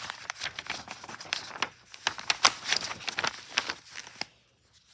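Paper rustling and crinkling as a sheet or page is handled, a quick run of crackling rustles that stops about four seconds in.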